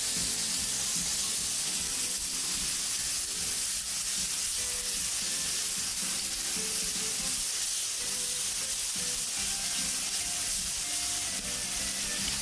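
Special sauce sizzling in a hot wok just after it is poured in, stirred with a metal ladle: a steady hiss.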